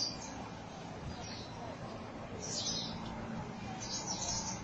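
A flock of small birds chirping in a tree: short clusters of high chirps every second or so, over a steady low background rumble.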